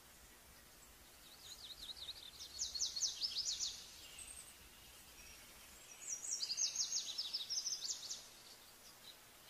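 A small songbird singing two bursts of rapid, high twittering notes, the second starting about six seconds in, over faint steady background noise.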